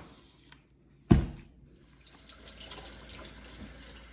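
A sharp thump about a second in, then a kitchen tap starts running steadily about two seconds in, water splashing into the sink.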